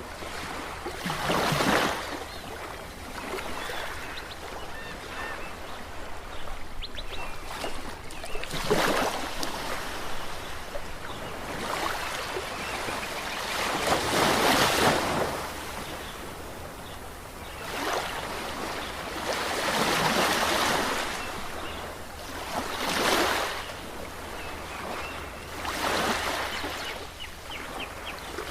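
Ocean waves breaking and washing in, swelling to a loud surge every three to six seconds, over a steady low rumble.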